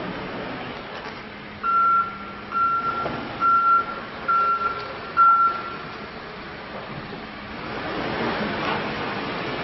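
Backup alarm on a Case 580N backhoe loader beeping five times, about one beep a second, over the machine's running engine. The engine noise grows louder near the end.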